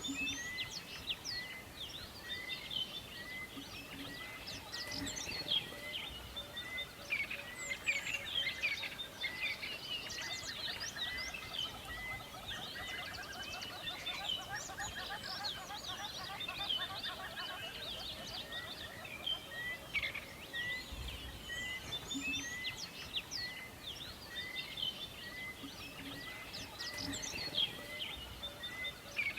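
Several wild birds singing and chirping together over a steady background hiss. One bird repeats a short note about twice a second through much of it, and rapid trills come in the middle.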